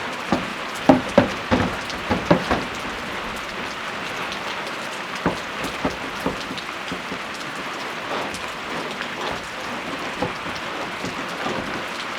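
Rain falling steadily, with a scatter of heavier drops striking a surface, most of them in the first three seconds or so.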